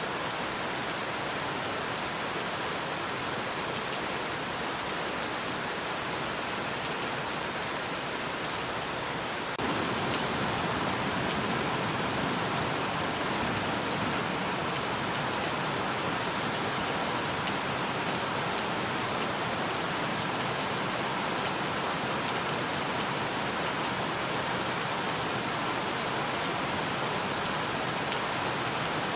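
Steady rain, an even hiss of drops falling on surfaces. About ten seconds in it turns a little louder and fuller.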